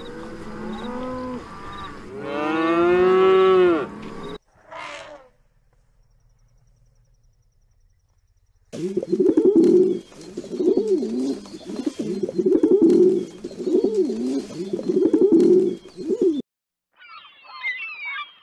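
Cattle mooing, with one long, loud moo about two to four seconds in. After a few seconds of near silence, pigeons coo over and over in a steady run. Gulls call briefly near the end.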